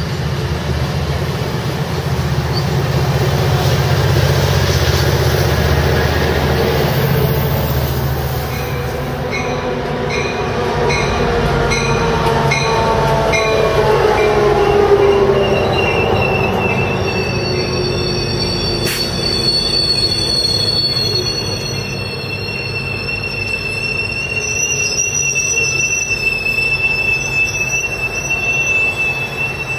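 Amtrak Pacific Surfliner train rolling slowly alongside the platform: a low rumble of the cars, then wheel and brake squeal falling in pitch as the train slows, settling into steady high-pitched squeals. A single sharp click sounds partway through.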